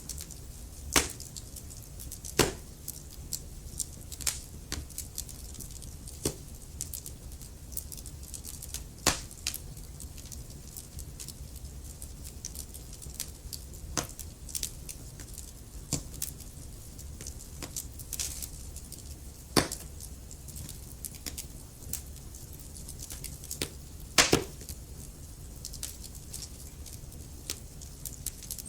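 Wood fire crackling, with irregular sharp pops every second or so, a handful of them louder, over a steady low rumble of the flames.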